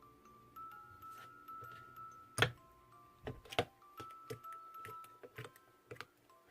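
Light background music with a bell-like melody in single stepping notes. Several sharp clicks or taps break in, the loudest about two and a half seconds in, with a close pair about a second later.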